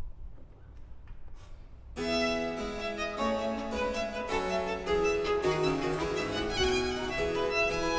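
Live baroque chamber music: after a short pause of faint room sound, baroque violin, baroque cello and harpsichord come in together about two seconds in and play on in a lively passage.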